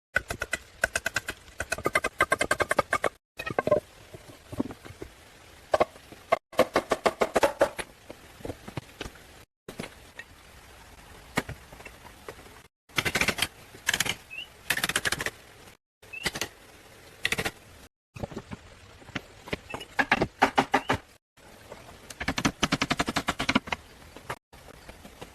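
Rapid runs of sharp knocks or strikes, many to the second, in short bursts broken by abrupt cuts every few seconds.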